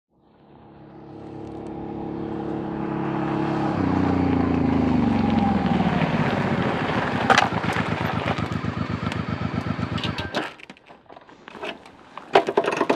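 Motorcycle engine coming up, its pitch falling as it slows, then running with a rhythmic pulsing beat before it is switched off about ten seconds in. A few clicks and knocks follow near the end.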